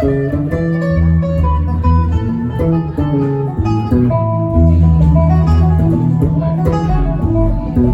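Band music led by guitar, with a steady, heavy low end under a line of changing notes.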